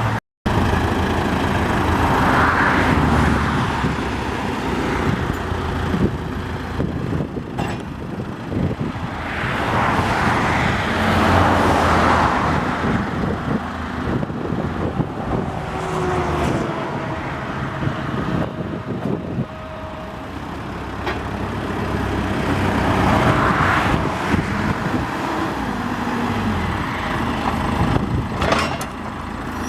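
Caterpillar 426C IT backhoe loader's turbo diesel engine running, rising and falling in loudness several times as the machine is worked and its hydraulics lift the front end.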